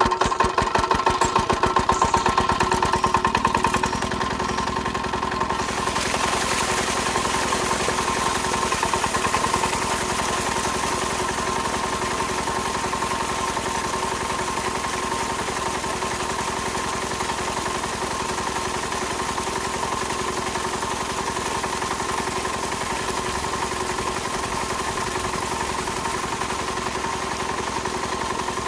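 Small motor of a DIY miniature farm-machine model running. It pulses rapidly and more loudly for the first few seconds, then settles into a steady hum with a constant whine.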